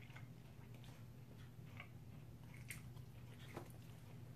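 Faint chewing of a bite of a crispy fried chicken sandwich, with a few soft clicks spread through, over a low steady hum.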